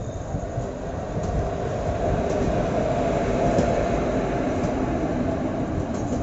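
Passenger train running on the track: a steady rolling rumble of the coach wheels on the rails, swelling a little louder through the middle.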